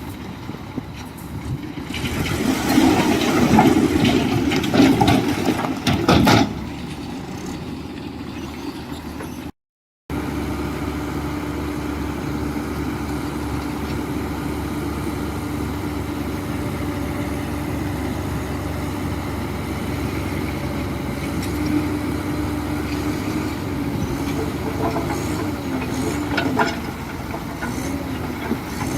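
Heavy diesel construction machinery running. The engine sound is louder and changing for the first six seconds, cuts out briefly just before ten seconds in, then settles into a steady drone with a held tone.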